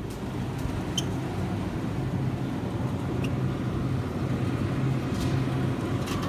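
A car engine running with road noise, a steady low hum that grows slightly louder, with a few faint ticks.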